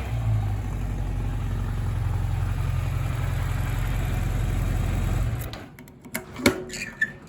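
1983 Kawasaki Z1000R2 Lawson Replica's air-cooled inline-four idling steadily, then shut off about five seconds in. A few light clicks and knocks follow near the end.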